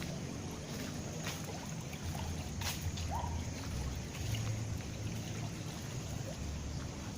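Steady trickle of running water, with a low rumble of wind on the microphone that swells and fades, and a short chirp about three seconds in.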